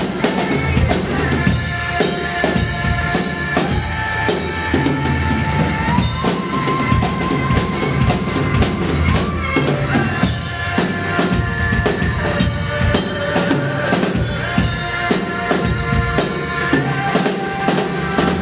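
Drum kit played to a steady beat, with bass drum and snare hits, over an instrumental backing track that holds sustained melody notes.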